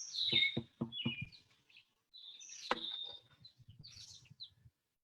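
Small birds chirping, with a quick run of soft taps in the first second or so and one sharper click a little past the middle.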